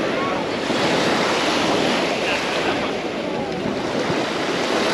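Sea waves washing onto the beach, with wind rushing over the microphone.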